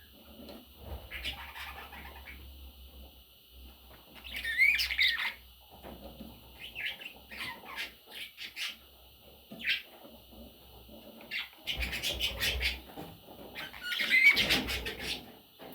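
Pet budgerigars chirping and chattering in short, irregular bursts of quick rising and falling calls, loudest about four seconds in and again near the end.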